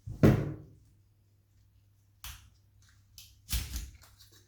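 A thump about a quarter-second in, a click about two seconds later and a short rustle near the end: handling noises of a Cymbidium orchid and its pot being worked on during repotting.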